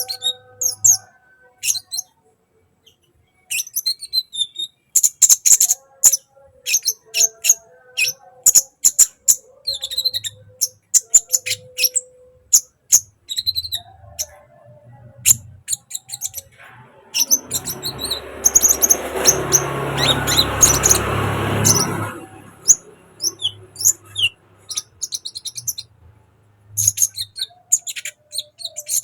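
A sunbird chattering and singing in rapid, sharp, high chirps and short trills. From about two-thirds of the way in, a loud rushing noise lasts about five seconds and then stops abruptly.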